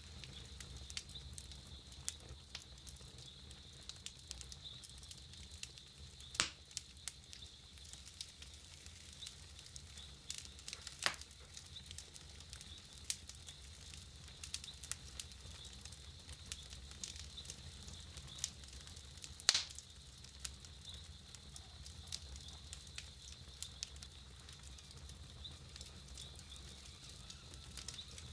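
Wood campfire crackling, with many small snaps and three louder pops spread through, over a steady faint high hiss.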